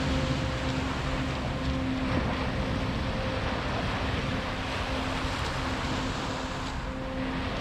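Sea waves washing onto a beach in a steady rush, under faint background music with held notes.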